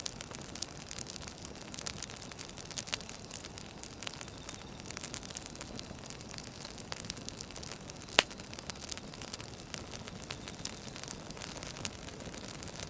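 Firewood fire crackling: a steady hiss with irregular small pops and snaps, and one sharp, loud pop about eight seconds in.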